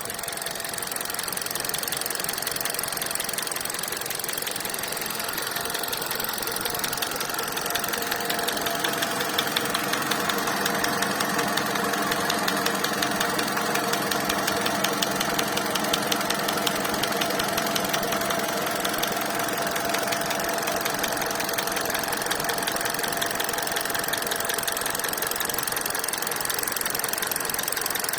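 2019 Hyundai Solaris (Accent) engine running steadily with a rapid, even knocking from inside the engine.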